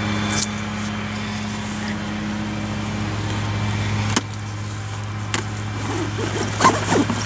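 A steady low hum, with a sudden drop in level about four seconds in, and faint voices near the end.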